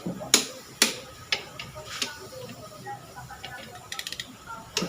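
Metal tools clinking and tapping on engine parts during hand assembly, a few sharp knocks spread through, with a quick run of ratchet-wrench clicks about four seconds in.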